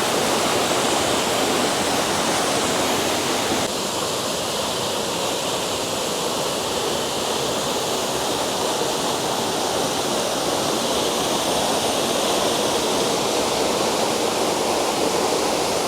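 Waterfall: a steady, even rush of falling water, its tone shifting slightly a few seconds in.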